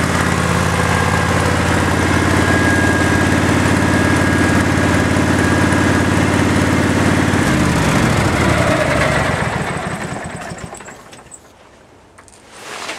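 1990 engine-driven welding machine running steadily, then revving down about seven seconds in, its sound dying away over the next few seconds.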